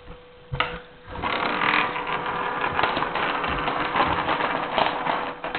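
A chocolate mini egg spun like a top on a hard surface: a knock about half a second in as it is set going, then a rapid, steady rattling for about four seconds as it spins.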